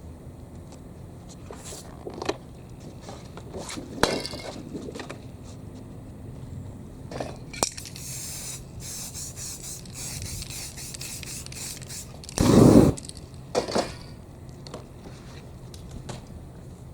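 Aerosol spray-paint can hissing for a few seconds, among scattered clicks, taps and scrapes. A loud thump comes just after the spray stops.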